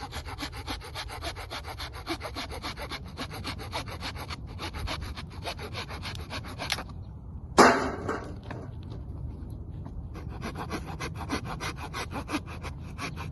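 Wood being sawn by hand with fast, even rasping strokes for firewood. Past the middle the strokes stop briefly and there is one loud knock, after which the sawing resumes.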